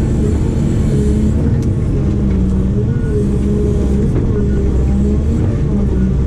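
Diesel engine of a working excavator running steadily under load, a loud low rumble whose pitch steps up and down several times.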